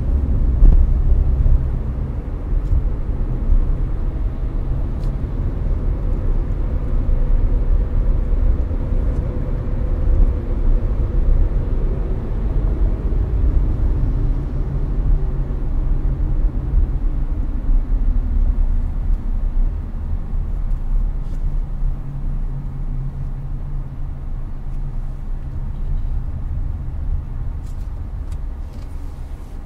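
Steady road and engine rumble inside a Hyundai Avante cruising on an expressway, with the air-conditioning fan blowing. The sound eases off slightly over the last few seconds.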